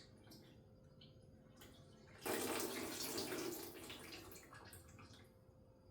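Engine coolant dripping, then about two seconds in a sudden gush of coolant splashing into a bucket, tapering off over the next few seconds as the system finishes draining.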